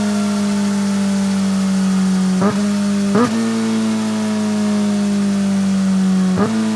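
Kawasaki ZX-4RR inline-four engine running at steady, high revs through a BEAMS R-EVO II titanium full exhaust, its pitch sagging slowly. Three times the pitch briefly jumps and wobbles sharply: twice close together near the middle, once near the end.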